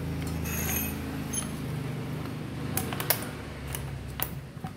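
Bosch GBH 2-26 rotary hammer drill, fitted with a new rotor and gears, running unloaded with a steady motor hum that weakens after the first second or so. Several sharp metallic clicks and clinks come in the second half.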